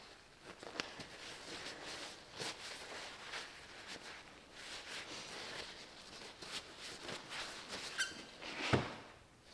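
Hand work on small transmission valve-body parts: scattered light clicks, taps and rustles as the parts are handled and opened up, with a louder knock near the end.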